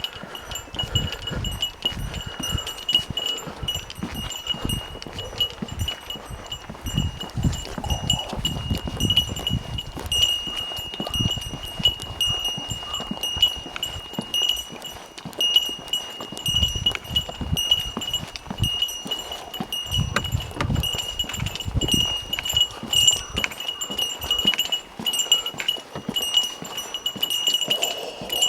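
A small metal bell, such as the bear bell Japanese hikers wear, jingles continuously as the wearer walks. Low gusts of wind rumble on the microphone now and then.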